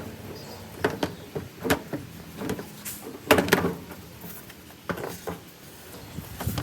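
A series of irregular knocks and clicks, some with a short ring, the loudest cluster a little past halfway.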